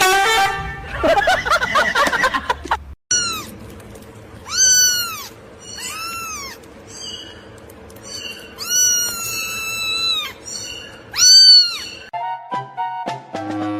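Cat meowing over and over, about six rising-and-falling meows with one long drawn-out meow in the middle.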